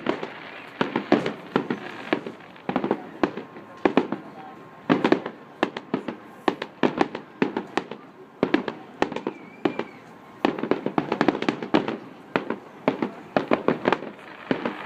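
Fireworks going off in rapid runs of sharp bangs and pops, one cluster after another, dying away near the end.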